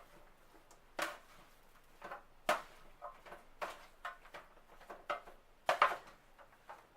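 A cooking utensil knocking and scraping against a pan while stirring vegetables: about ten irregular clacks, the loudest a pair near the end.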